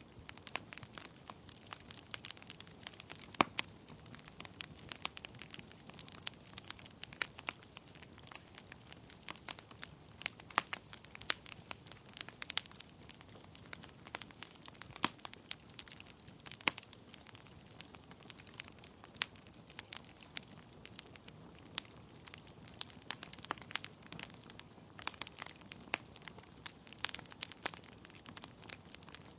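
Wood fire in a fireplace crackling: logs popping in quick irregular snaps over a faint steady hiss of the flames.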